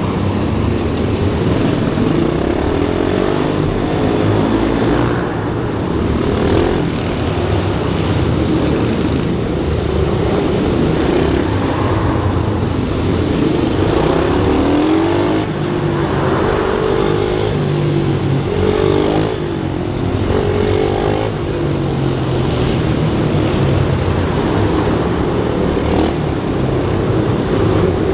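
Pit bike engines revving hard and easing off over and over, their pitch rising and falling in quick sweeps with more than one engine heard at once.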